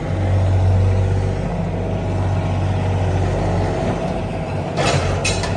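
An engine runs steadily with a low hum, and its exhaust is what makes the air smoky. Near the end, sharp clattering strikes come in over it.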